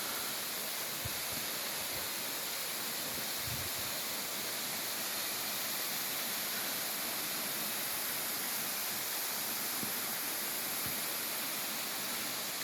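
Waterfall: water falling from a height and running down, a steady, even rush of water.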